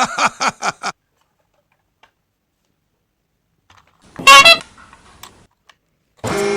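Toy train horn toots: a quick run of short pitched blasts at the start, a single loud toot about four seconds in, and a steady horn note beginning near the end.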